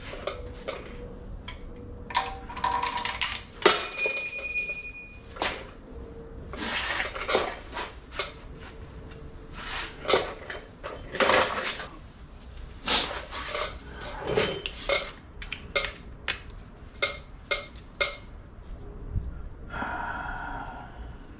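Metal hand tools and engine parts clinking and clanking in irregular knocks during engine reassembly, one strike about four seconds in ringing briefly.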